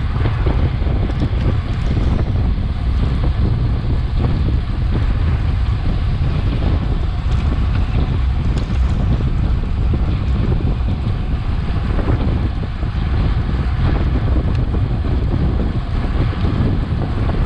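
Steady wind buffeting on a Garmin VIRB action camera's microphone from a road bike ridden at race speed, a heavy low rumble of noise.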